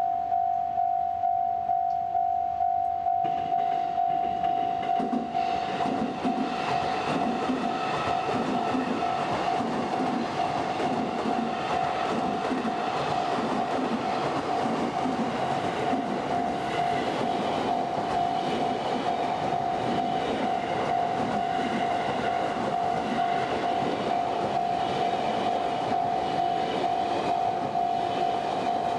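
Electric commuter train running past on the tracks, its noise swelling in about three seconds in, with wheels clacking over the rail joints. A single steady high ringing tone sounds throughout, pulsing about twice a second at first.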